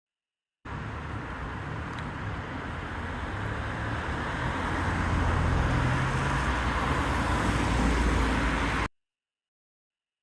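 A vehicle's steady rumble and hiss, growing louder over the first few seconds, that starts and cuts off suddenly.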